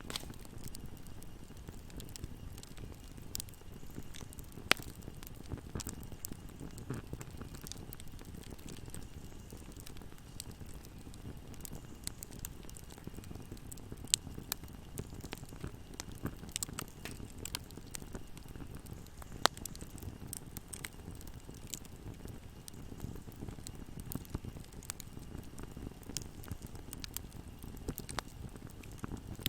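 Wood fire burning in a fireplace: a steady low rumble of flames with scattered crackles and sharp pops, the loudest pops about 5, 14 and 19 seconds in.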